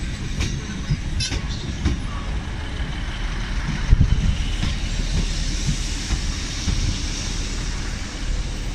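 ScotRail Class 156 diesel multiple unit moving past along the platform: a steady low rumble of underfloor engine and wheels, with clicks of wheels over rail joints and a louder knock about four seconds in.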